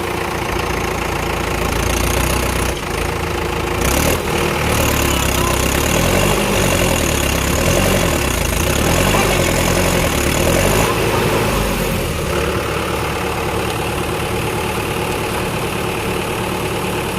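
Tractor diesel engine running steadily, its low note wavering through the middle and settling near the end, with a short sharp knock about four seconds in.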